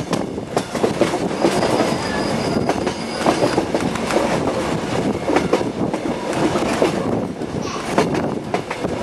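Passenger train carriages rolling along a curve, heard from an open carriage window: a steady rumble of wheels on rail with many quick clicks. A thin high wheel squeal rings for about two seconds, starting about a second and a half in.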